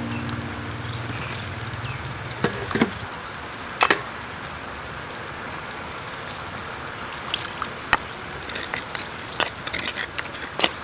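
Steady rush of a running creek, with a few sharp knocks and faint bird chirps over it. Background music with low held notes fades out over the first three seconds.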